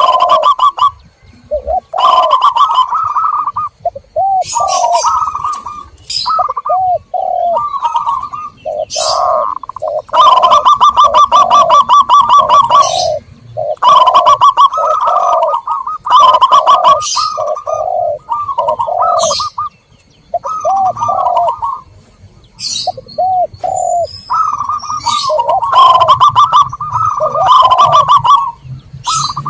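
Zebra doves and spotted doves cooing: repeated phrases of rapid trilled and rolling coo notes with short gaps between them, mixed with brief high chirps from small birds.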